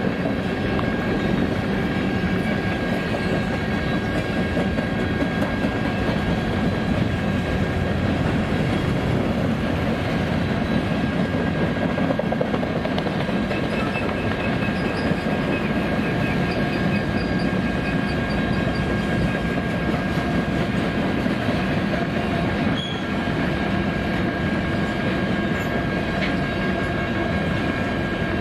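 Covered hopper cars of a freight train rolling past, a steady rumble of steel wheels on the rails with clickety-clack. A thin, steady high whine runs over the rumble.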